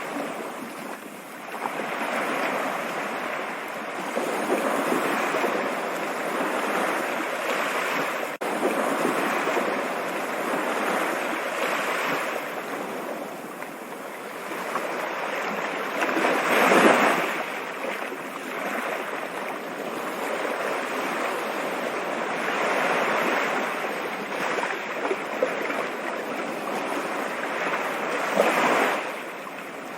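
Continuous rushing water, a steady whooshing with no tones, swelling louder about halfway through and again near the end.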